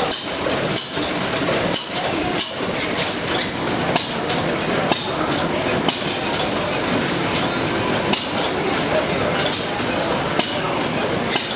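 Large stationary engine running, a steady mechanical clatter with sharp clanks every second or two.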